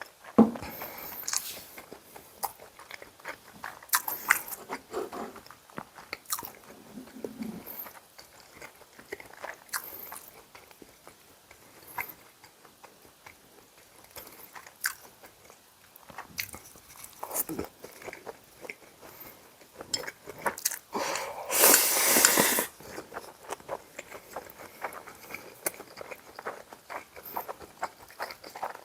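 A person biting and chewing yukjeon and bibim-myeon close to the microphone, with many small wet mouth clicks and smacks. About three-quarters of the way through comes one louder noisy stretch lasting about a second.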